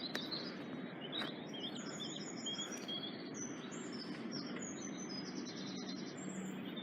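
Birds singing, with repeated short high chirping phrases over a steady outdoor background noise. A faint low steady hum comes in near the end.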